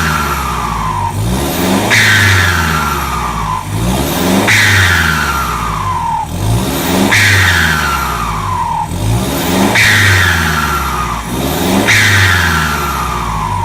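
Toyota Vigo pickup engine revved through an aftermarket performance exhaust that exits ahead of the rear axle: repeated throttle blips, each snapping up and then falling back, about every two and a half seconds.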